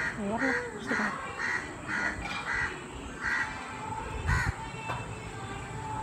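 A bird calling in a series of about eight short, evenly spaced calls, roughly two a second, that stops about four and a half seconds in.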